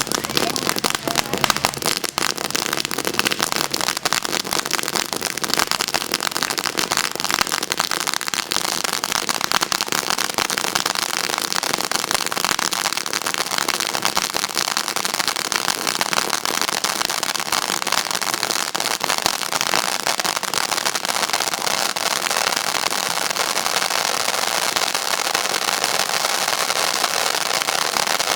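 Fireworks going off in a long, unbroken run of rapid pops and crackles, so dense that in the second half they blur into a continuous crackle.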